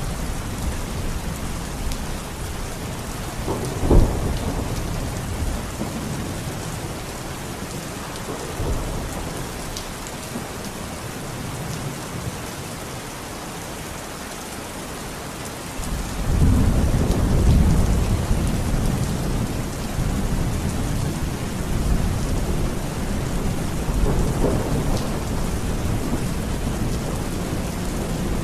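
Heavy rain falling steadily through a thunderstorm, with a sharp thunder crack about four seconds in and a deep, long roll of thunder that starts suddenly past the halfway point and rumbles on for several seconds.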